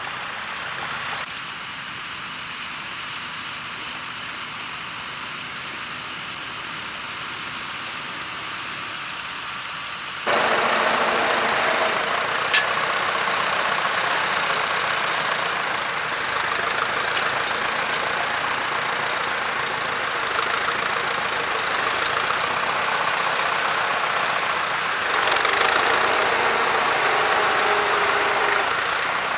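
Tractor engine running steadily. The sound steps up abruptly about ten seconds in and gets louder again near the end.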